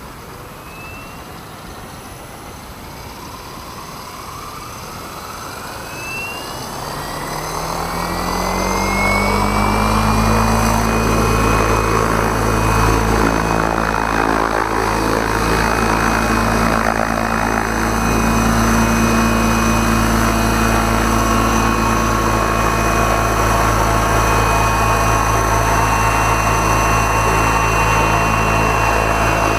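Large electric RC helicopter with 750 mm main blades spooling up. The motor's whine rises steadily in pitch over the first ten seconds or so as the rotor comes up to head speed, then holds steady under loud, even rotor-blade noise.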